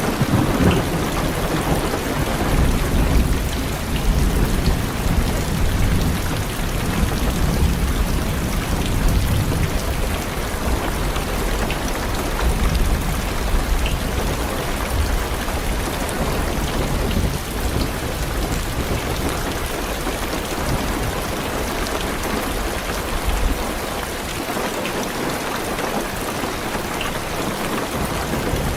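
Heavy rain falling on a car's roof and windows, with low rolling thunder rumbling under it for most of the stretch and dying away near the end.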